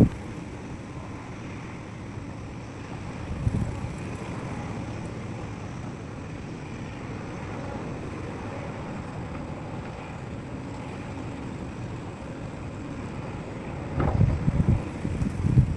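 Excavator diesel engine running steadily, with wind buffeting the microphone in low rumbling gusts, briefly about three and a half seconds in and more strongly near the end.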